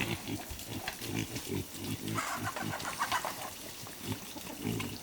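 Farm animals making low, irregular, repeated sounds, with a couple of higher calls around the middle.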